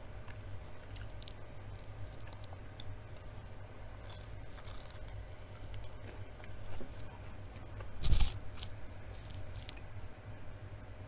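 Close-up mouth sounds of a person chewing a crispy breaded chicken tender: small crunches and wet clicks over a low steady hum, with one louder sudden sound about eight seconds in.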